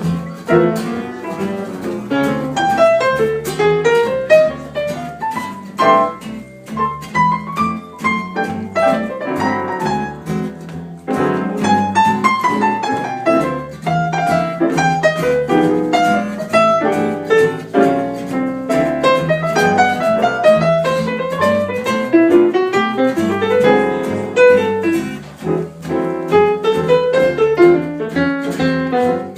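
Piano playing continuously, with quick rising and falling runs over a steady bass line.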